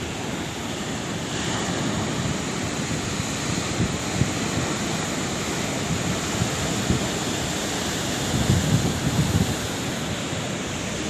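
Sea waves breaking and washing onto the shore in a continuous rush, with a wave surging brighter about a second and a half in and heavier rumbling near the end. Wind buffets the microphone.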